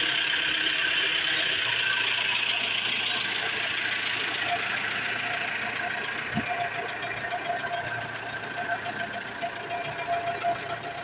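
Road roller's diesel engine running steadily while the machine is driven and steered, getting a little quieter in the second half, with one short knock about six seconds in.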